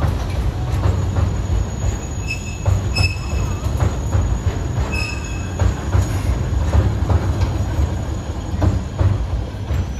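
Alishan Forest Railway narrow-gauge train running on the track, with a steady low rumble and wheel knocks. There are short high-pitched wheel squeals a little over two seconds in, at about three seconds and at about five seconds.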